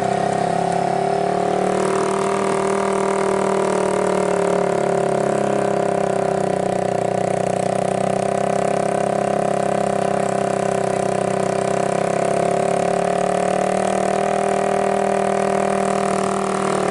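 Heavy Nissan Euro truck's diesel engine running at steady, held revs as it labours up a steep grade under a 22-tonne load.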